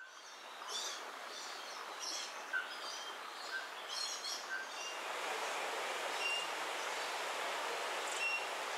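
Several wild birds calling in short, high chirps and brief whistled notes, busiest in the first half, over a steady rushing hiss of outdoor ambience that swells slightly about halfway through.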